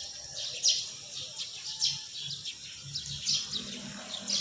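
Small birds chirping: short, high, downward-sweeping chirps about once a second.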